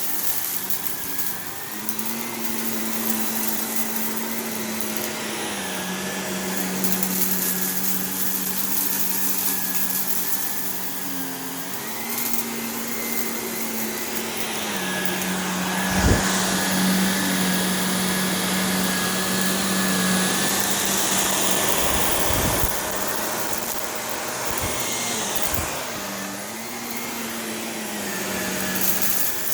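Shark Navigator Lift-Away NV351 upright vacuum running while vacuuming, its motor hum stepping up and down in pitch several times as it works. There is a sharp knock about halfway through and a few lighter knocks later.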